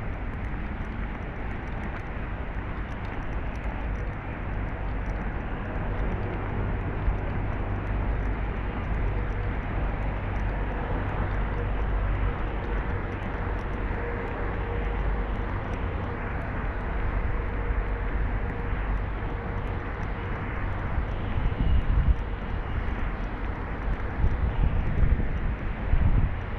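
An airplane passing over, a steady low rumble and rush that swells through the middle and eases off, with a faint whine. A few low bumps near the end.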